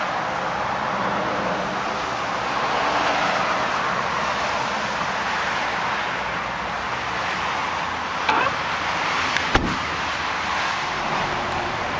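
Steady outdoor road-traffic noise, with two short knocks about eight and nine and a half seconds in.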